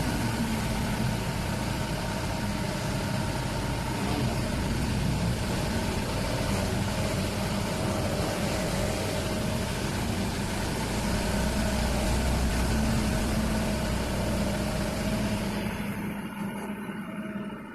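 A truck engine running steadily with its rumble and road noise. The sound thins out and gets quieter about sixteen seconds in.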